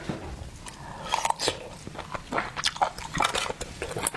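Close-up chewing and biting of shellfish: irregular wet crunches and clicks that grow thicker from about a second in.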